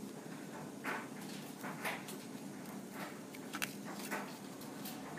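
Sharp scissors snipping through a plastic DVD disc: a series of short, crisp cuts, about one or two a second.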